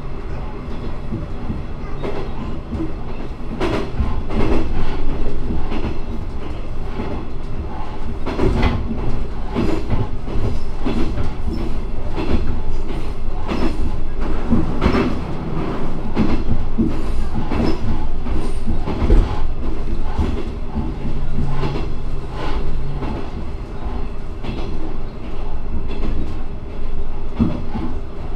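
Diesel railcar running along the line, heard from the front of the car: a steady low engine and rolling drone with a clatter of wheels over rail joints at irregular intervals.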